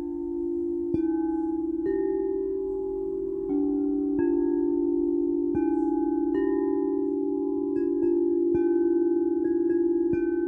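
Singing bowls struck one after another, about once a second, their overlapping tones ringing on with a slow wobble in the lower notes.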